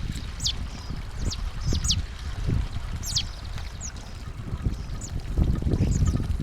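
Small songbirds at a feeder calling with short, high, thin notes that sweep downward, one every half second or so, over an irregular low rumble that grows louder near the end.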